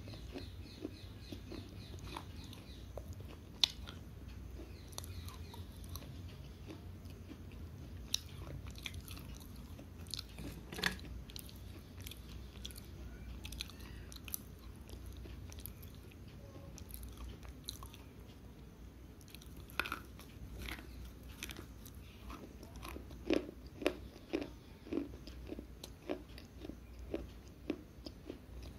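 Slate pencils being bitten and chewed close to a microphone: sharp crunches and snaps scattered throughout, with a quicker run of louder crunches about three-quarters of the way through.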